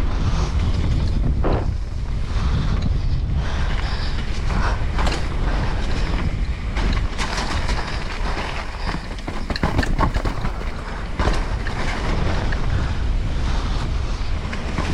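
Heavy wind buffeting the microphone during a mountain bike descent, over the bike's tyre noise and irregular knocks and rattles as it crosses rough trail.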